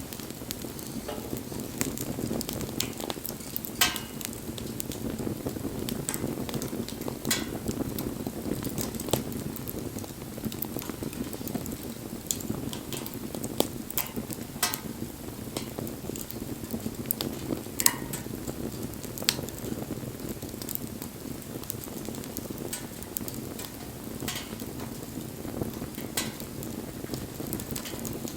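Wood campfire burning: a steady low rush of flames with irregular sharp crackles and pops, a few louder snaps standing out every few seconds.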